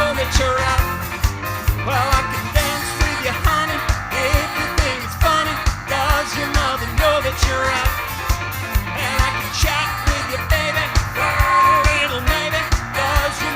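A live band playing a pop song with a steady drum beat, and a singer over it.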